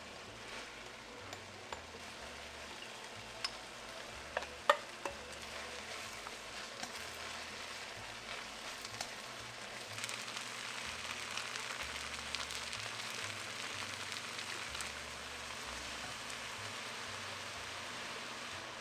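Food sizzling in a frying pan, with a few sharp taps of a utensil about four to five seconds in; the sizzle grows louder about ten seconds in.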